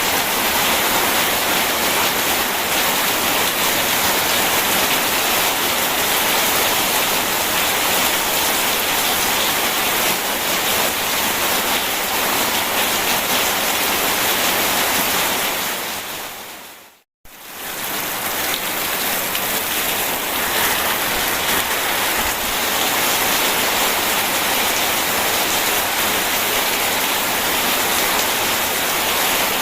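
Steady rain with rushing water, a dense even hiss. A little past halfway it fades out to a moment of silence and quickly fades back in, as at the joint of a looped recording.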